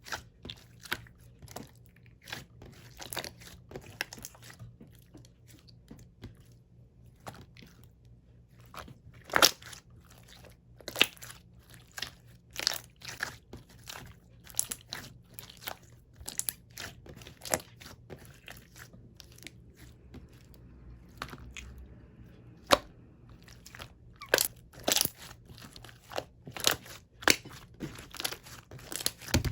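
Slime being squeezed, pressed and stretched by hand, giving irregular sticky pops and clicks, a few of them louder snaps.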